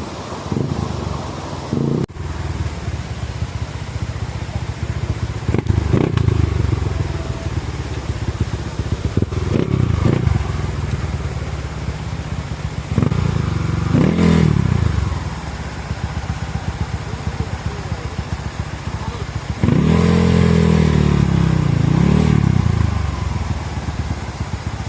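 Dirt bike engine running under load, revved up and back down several times, with the longest and loudest rev about twenty seconds in.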